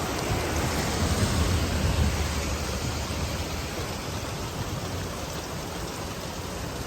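Steady rain falling, a continuous even hiss. About a second in, a low rumble swells for a second or so, then fades.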